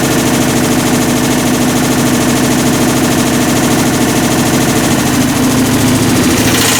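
Hitachi BeatWash BW-D8KV washing machine running with a loud, fast rattling and grinding noise that shifts in pitch about five seconds in: the sign of a failed clutch, which the owner blames on overloading the drum.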